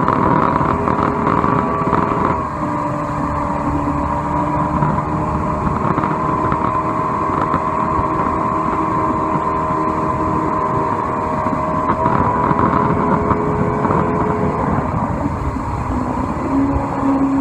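Johnson 120 V4 two-stroke outboard running steadily at speed under way, with a rushing noise beneath it. Its pitch dips slightly about two and a half seconds in and again about twelve seconds in.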